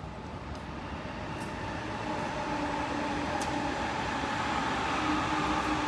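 Electric train noise: a steady rumble that grows gradually louder, with a faint whine in it.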